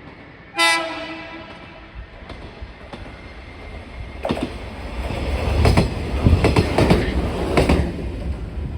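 A train horn sounds one short blast about half a second in. From about four seconds in a train rolls by with rhythmic clickety-clack of wheels over rail joints, growing louder.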